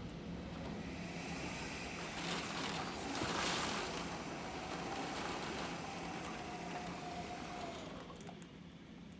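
Hurricane wind blowing in gusts, strongest about three and a half seconds in, with a faint whistle that sinks slightly and fades out shortly before the end.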